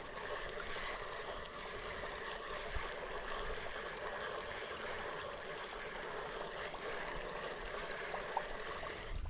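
Steady rushing, trickling water that starts and cuts off abruptly, with a few faint ticks over it.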